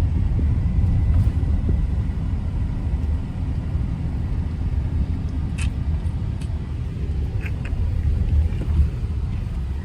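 Car on the move heard from inside the cabin: a steady low road and engine rumble, with a few faint ticks partway through.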